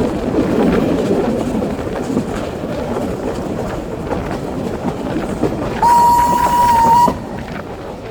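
Heritage train running on the line, a loud rumble with wheels clicking over the rail joints. Near the end, one whistle blast of just over a second on a single steady note, which cuts off sharply.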